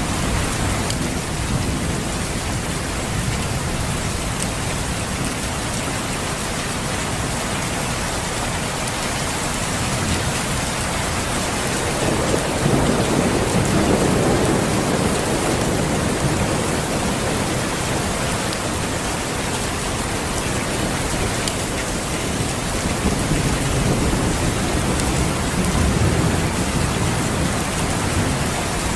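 Steady rain with low rolling thunder that swells about halfway through and again near the end.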